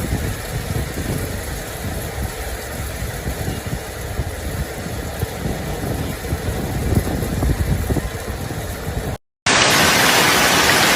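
Storm footage: a low, uneven rumbling noise, then after a sudden cut a loud, steady hiss of a heavy hail or rain downpour.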